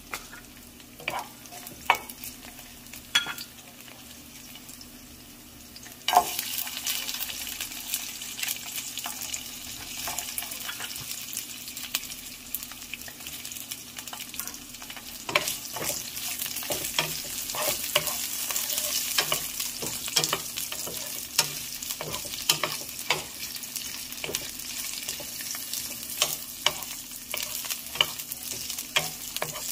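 Garlic and sliced Chinese sausage frying in oil in a nonstick pan: a few clicks and light sizzling at first, then the sizzling jumps up sharply about six seconds in as the sausage goes in. It stays loud and steady after that, with a spatula knocking and scraping against the pan as it is stirred.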